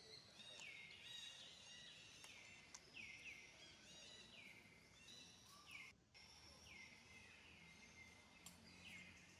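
Faint birds calling: repeated high calls, about one a second and partly overlapping, each falling sharply in pitch and then holding steady, over quiet background hum.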